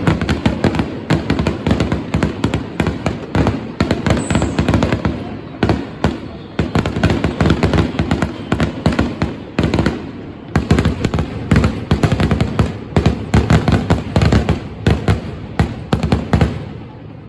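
Fireworks going off in a rapid, dense barrage of bangs and crackles, several a second, with brief lulls, dying away near the end.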